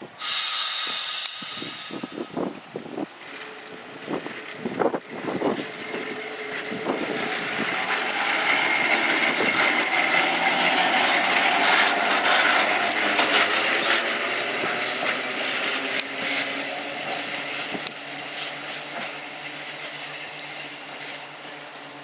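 Tram on its track: a loud hiss burst at the start, a run of knocks and clunks over the next few seconds, then steady running noise with a faint whine that slowly fades.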